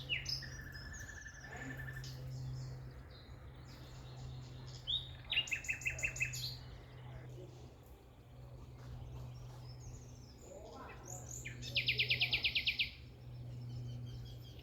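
Wild birds singing and calling: scattered high chirps and short phrases, with rapid trills about five and twelve seconds in, the second the loudest. A steady low hum runs underneath.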